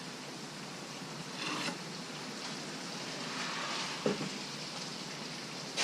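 Short scratching and light handling noises from marking a line along a straight edge on a wooden fence picket, over a steady hiss. There is one brief scratch about a second and a half in, a fainter one a couple of seconds later, and a small knock near the middle and another at the end.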